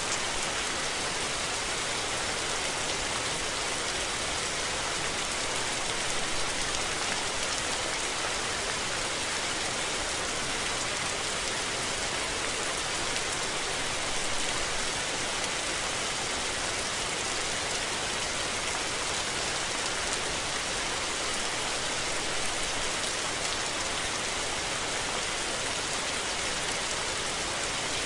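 Steady rain falling, an even hiss of drops on surfaces with no break or change.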